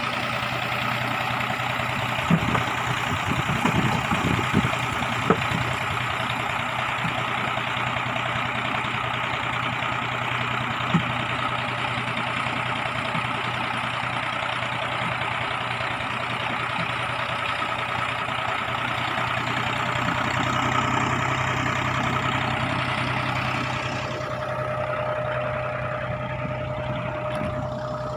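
Small fishing boat's engine running steadily under way, with a few knocks in the first several seconds. A steady higher tone joins the engine sound near the end.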